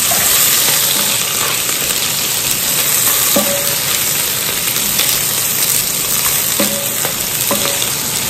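Sliced calabresa sausage, onion and peppers sizzling steadily as they fry in a pressure-cooker pot, stirred with a wooden spoon that knocks and scrapes against the pot now and then.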